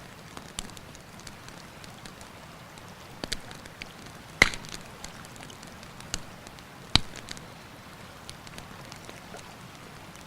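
Wood campfire crackling with scattered small pops and two sharp loud cracks, about four and a half and seven seconds in, over the steady rush of a river.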